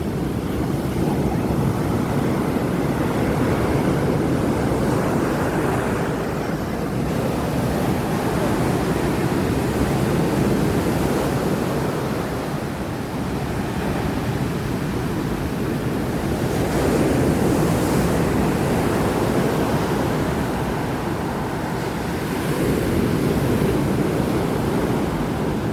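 Rough surf breaking on a beach in strong wind: a steady rush of waves that swells louder every several seconds, with wind buffeting the microphone.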